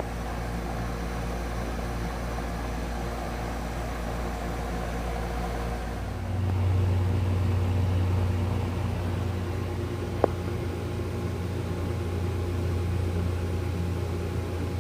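1993 Heil central air conditioner running steadily with a low electrical hum, back to normal operation after its breaker was reset. A stronger low hum sets in about six seconds in, and there is a single sharp click a few seconds later.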